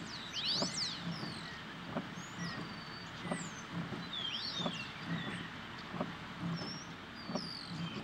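Birds chirping: many short, high whistling calls gliding up and down, scattered throughout, over a low, dull thud that repeats about twice a second.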